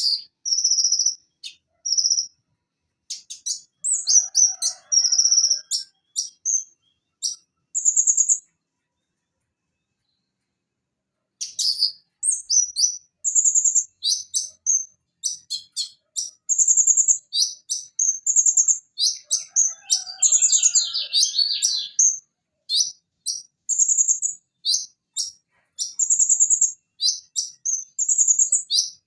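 Van Hasselt's sunbird (konin) singing: rapid, high-pitched chirps and short trills in quick runs, with a pause of about three seconds a third of the way in.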